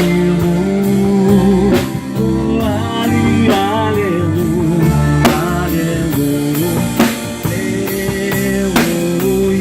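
Worship band playing an instrumental passage between sung lines: drum kit, bass and sustained chords under a wavering melodic lead line.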